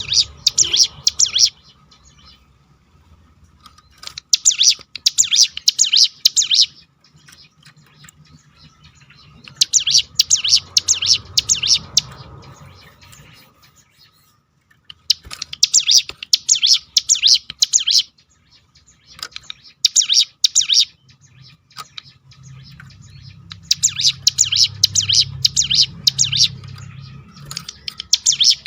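Ciblek gunung, a mountain prinia, singing its rapid rolling 'tembakan' song: fast high trills in bouts of two to three seconds, repeated after short pauses, over a faint low hum.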